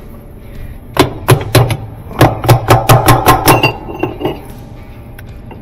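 A quick run of sharp metal knocks, about four a second for a couple of seconds, then a few lighter ones, as a new spin tube is worked into place on an older Whirlpool washer's drive.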